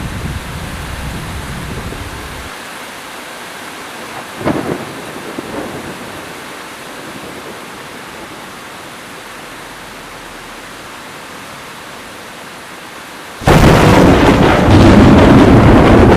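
Heavy rainstorm: steady rain hiss, with a low thunder rumble dying away at the start and a short crack about four and a half seconds in. Near the end a huge thunder crack breaks in suddenly and loudly, rumbling on.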